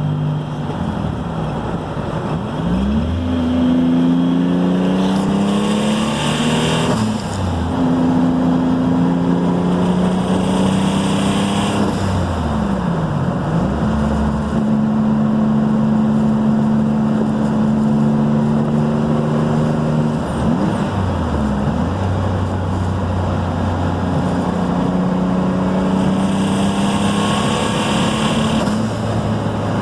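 Turbocharged car engine pulling through the gears, its pitch climbing and then dropping at each shift. A high turbo whistle and hiss comes in three times as it accelerates under boost.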